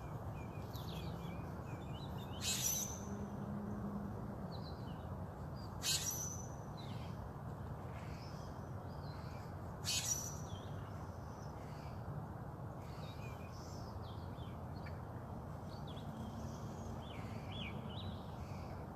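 Wild birds calling over a steady low background hum: a short, harsh, high call comes three times, a few seconds apart, in the first half, with fainter chirps scattered throughout.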